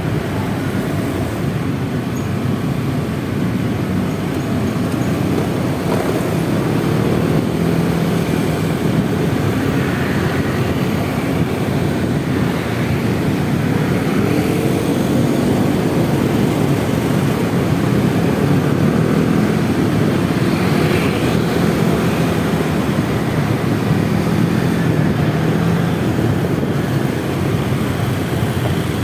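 Honda Vario 125 scooter's single-cylinder engine running under way in city traffic, with steady road noise and the engine pitch rising and falling a little around the middle.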